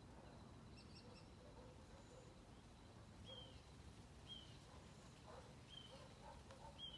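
Faint birdsong: a bird repeats a short, falling call about once a second from roughly halfway in, with a few brief higher chirps earlier, over a low steady background rumble.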